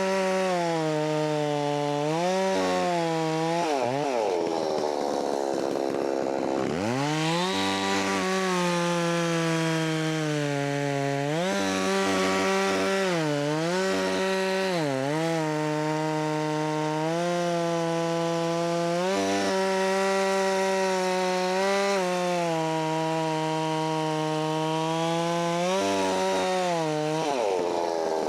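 Holzfforma 660 clone two-stroke chainsaw running at full throttle and cutting wood, its pitch dipping again and again as the chain bogs into the cut and then recovers. About four seconds in it drops to idle and then revs back up.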